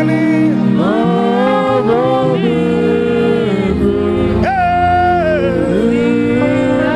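Gospel singing: a solo voice holding long, sliding notes over sustained keyboard-like accompaniment.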